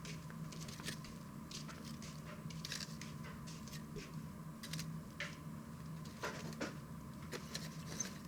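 Wood campfire crackling, with sharp pops and snaps at irregular moments over a steady low hum.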